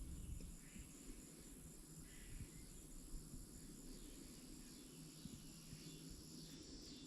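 Near silence: quiet outdoor ambience, with faint steady high-pitched insect trilling over a low rumble.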